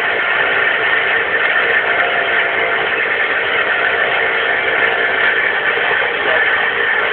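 Loud, steady engine noise from a Suzuki 1000 motorbike held at constant revs to spin over a 100cc PRD kart engine that won't start.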